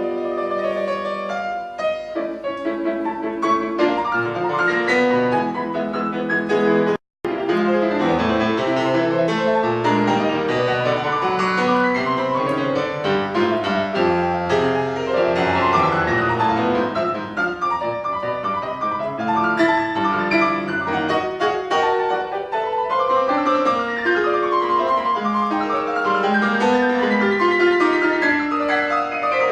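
Piano playing a fast, dense classical passage with many quick notes. The sound cuts out completely for a split second about seven seconds in.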